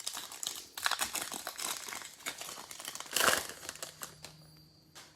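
Plastic wrapper of a trading-card pack crinkling as it is handled and torn open, with a louder burst of crackling about three seconds in.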